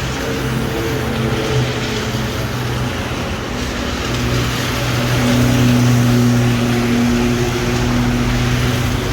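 A motor vehicle's engine running close by, its hum growing louder from about four seconds in, over a steady hiss of rain and wet street noise.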